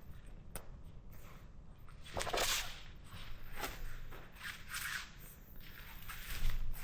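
Camping gear being handled and packed up: a series of short rustles and swishes, the loudest about two seconds in.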